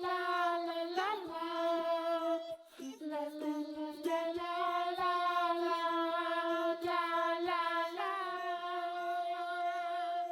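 A high singing voice carrying a wordless tune in long held notes, with a short break about two and a half seconds in.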